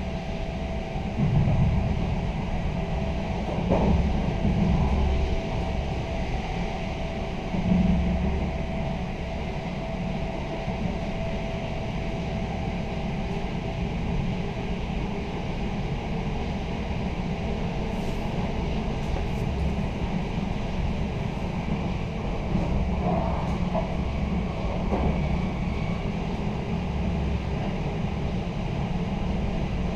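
Ride noise inside an Intercity train carriage running at speed: a steady wheel-on-rail rumble with louder low surges a few times in the first eight seconds, and a faint steady whine over the first half.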